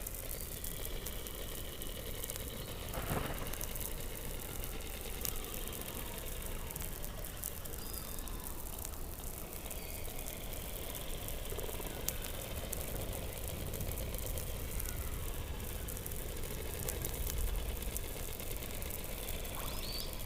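Underwater sound beneath the Antarctic ice, picked up by a hydrophone: a steady hiss and crackle with faint high whistle-like tones and short glides, and a sharp crack about three seconds in.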